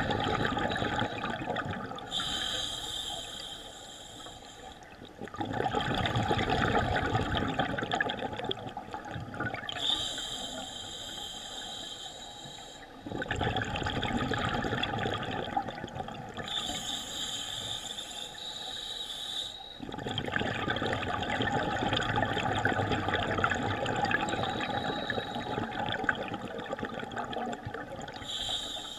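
Scuba diver breathing underwater through a regulator: a hissing inhale, then the bubbling rush of the exhale, repeated about three times.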